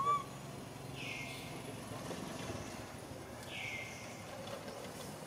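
Outdoor ambience: a short high chirp right at the start, then a bird call that falls in pitch, repeated about every two and a half seconds, over a faint low engine hum.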